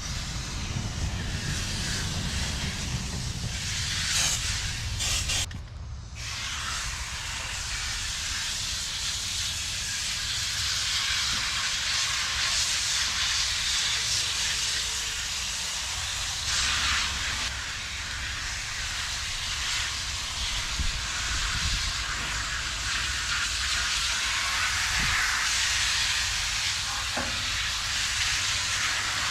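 Water spray hissing steadily onto the coils of an air-conditioner outdoor condenser as they are washed, with a low rumble underneath. The spray cuts off briefly about six seconds in.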